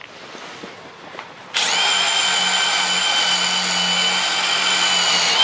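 A power tool's electric motor starts about a second and a half in and runs at a steady, unchanging whine, then cuts off suddenly near the end.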